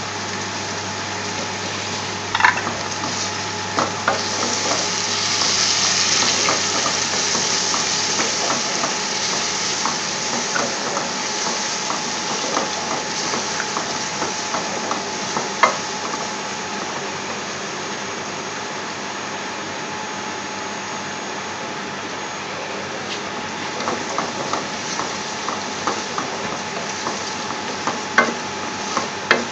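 Oil sizzling steadily in a metal pot as garlic, ginger and whole spices fry, stirred with a wooden spoon. A few sharp knocks come through, about two and a half seconds in, near the middle and near the end, as the spoon strikes the pot.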